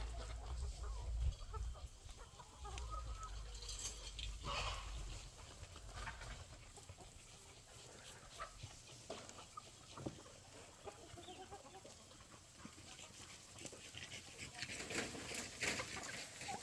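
Chickens clucking softly, with scattered light clicks and knocks.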